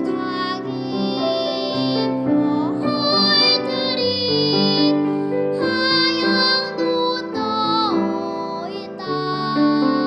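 A young girl singing a Korean children's song with piano accompaniment, holding long notes with vibrato.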